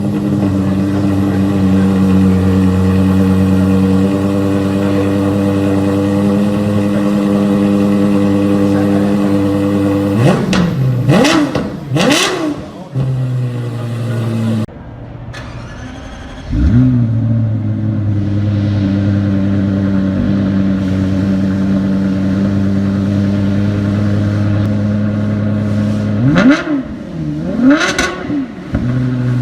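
Lexus LFA's 4.8-litre Toyota 1LR-GUE V10 running at idle, then blipped twice in quick sharp revs that rise and fall within a second each, about ten to twelve seconds in. It cuts off abruptly, is started again about sixteen seconds in, settles to a steady idle, and is revved in quick blips again near the end.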